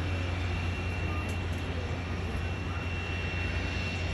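Jet airliner engines running steadily: a low hum under an even rush of noise, with a faint high whine.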